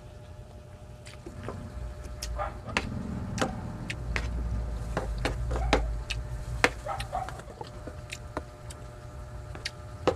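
Close-miked eating sounds: a person chewing a mouthful of rice and sardines, with scattered wet mouth clicks and smacks. There are also light clacks of a wooden spoon scooping rice from a tray.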